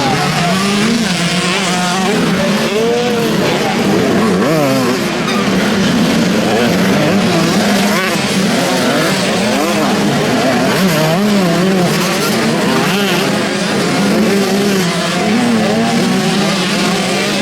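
Several motocross bikes racing, their engines revving up and down and overlapping as they accelerate and shift.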